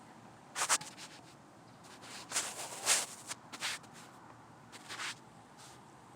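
A few short scratchy rustling sounds, separated by pauses.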